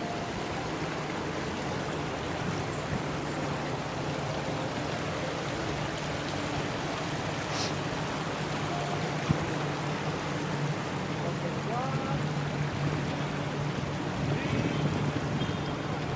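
Steady background noise of an indoor shopping mall: a low, even hum with faint distant voices.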